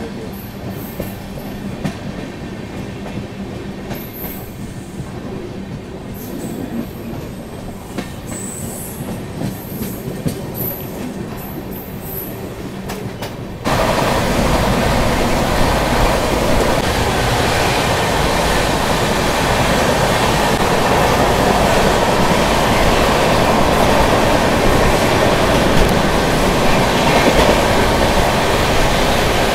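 Train running on rails: a steady rumble of wheels on track, which jumps abruptly much louder about halfway through and stays loud.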